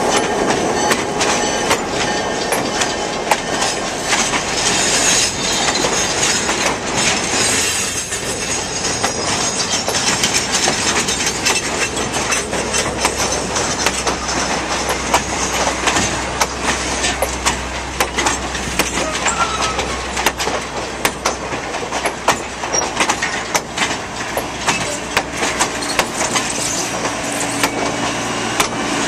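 Heritage passenger coaches rolling past at close range, their wheels clicking over the rail joints and the running gear rattling in a continuous rumble. Near the end a steady low hum joins in as a later car goes by.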